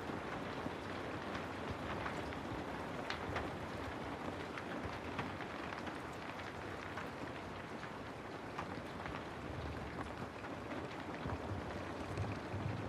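Steady rain: an even hiss with many scattered small drop ticks.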